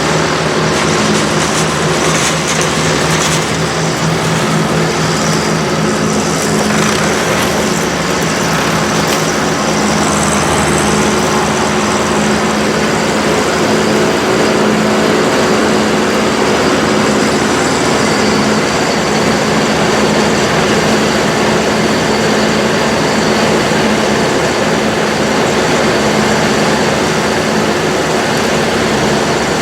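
Tractor engine and trailed forage harvester running steadily, a continuous loud mechanical drone with a steady hum.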